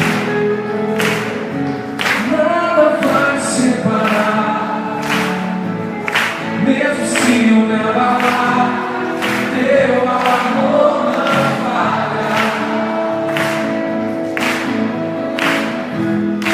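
Live gospel worship music: a band with drums and cymbals keeping a steady beat, with voices singing together over it.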